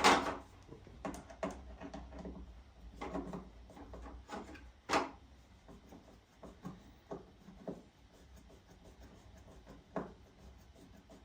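Plastic parts of a pressure washer being handled and knocked together during assembly: a sharp knock at the start, another about five seconds in and a lighter one near ten seconds, with small clicks and rattles in between.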